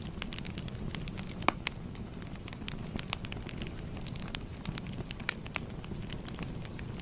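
Fire crackling: a steady low rumble of flames with many irregular small pops and snaps, one louder pop about a second and a half in.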